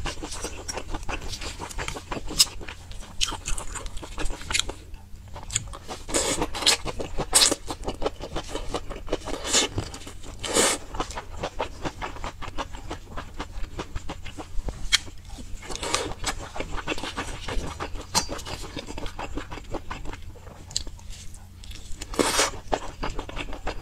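Close-miked chewing and biting of spicy sauce-coated skewered chicken and meatballs, with irregular sharp mouth smacks and clicks throughout and a few louder ones.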